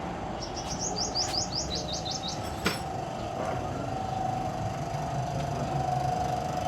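A small bird chirping a quick run of about ten rising notes, then a single sharp click near the middle, over a steady background hum.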